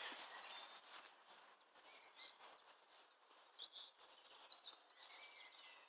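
Faint birdsong: scattered short, high chirps from wild birds over a near-silent outdoor background.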